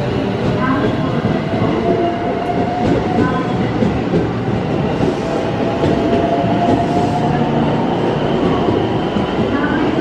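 Electric train running on the rails with a motor whine that rises slowly in pitch over the first half, over heavy running noise from wheels and track.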